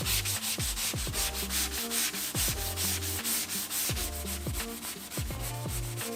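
Abrasive sanding of a hinoki (Japanese cypress) board surface: a continuous scratchy rasp in quick, even strokes, several a second, that stops just after the end.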